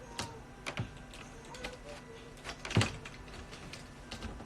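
Scattered clicks of typing on a computer keyboard, irregular taps with one louder knock near three seconds in.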